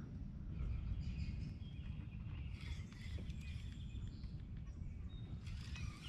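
Faint bird calls, scattered short chirps and whistles, over a low steady rumble.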